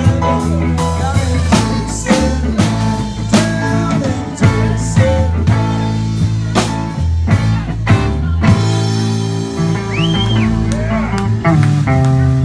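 Live band playing a blues-rock song: drum kit keeping a steady beat under guitar and bass.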